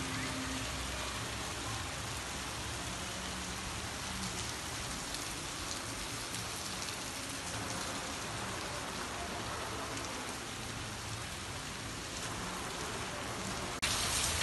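Heavy rain falling steadily, an even hiss of rain on the ground and roofs. Just before the end it turns suddenly louder and brighter, closer rain splashing onto a wet, water-covered balcony floor.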